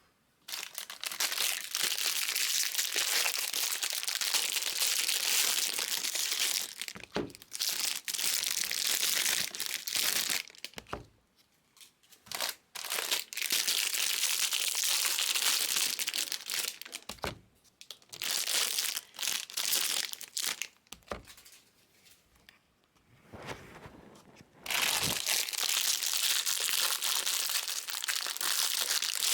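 Trading card pack wrappers crinkling and tearing as packs are opened, in several long stretches of crackly rustling with short quiet gaps between them.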